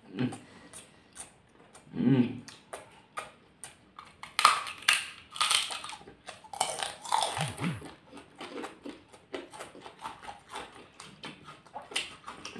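Close-miked eating: crunching of fried crackers (kerupuk/rempeyek) and chewing of rice, with wet mouth clicks and lip smacks. The crunching is densest about halfway through. A couple of short low hums are heard, one around two seconds in and one a little past halfway.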